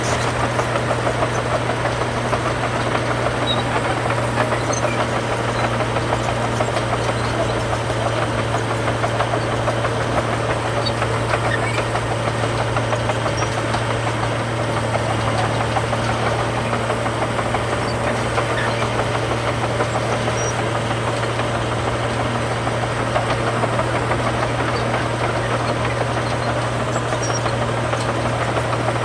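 Heavy diesel engine of earthmoving machinery running steadily at a constant pitch, with a continuous low hum and mechanical clatter and no change in speed.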